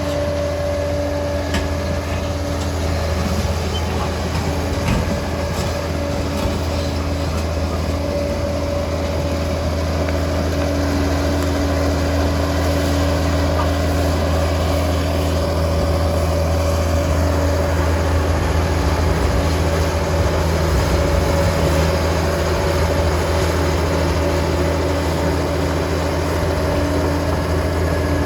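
Liebherr 746 crawler dozer's diesel engine running steadily under work: a deep, even drone with a steady higher whine over it.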